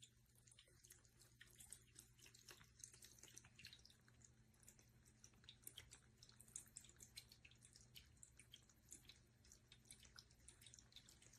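Faint water trickling and dripping from a running cat water fountain, with many small irregular drips over a faint steady low hum.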